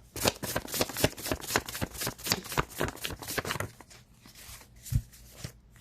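A deck of tarot cards being shuffled: a quick, dense run of card flicks for about three and a half seconds, then a few lighter clicks and a soft thump about five seconds in.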